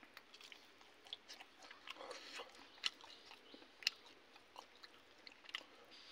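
Close-up chewing of a handful of rice and fried fish eaten by hand: faint soft mouth clicks throughout, with two sharper clicks about three and four seconds in.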